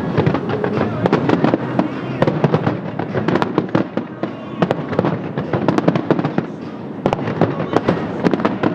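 Fireworks display: a rapid, continuous barrage of bangs and crackling reports, several a second, over a steady rumble of overlapping bursts.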